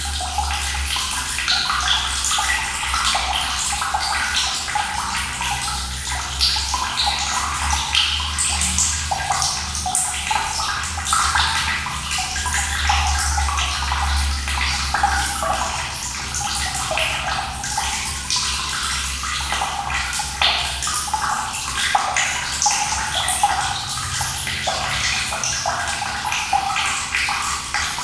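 Running water flowing and splashing steadily, with a low rumble underneath.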